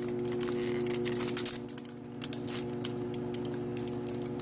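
Aluminium foil crinkling and clicking as clay is rolled out and handled on it, busiest in the first second and a half and then sparser. A steady low hum runs underneath.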